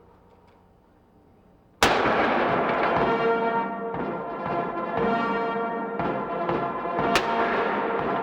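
Near quiet, then about two seconds in a military band strikes up loudly with a cymbal crash and sustained chords, sounding ceremonial honors; a second cymbal crash comes near the end.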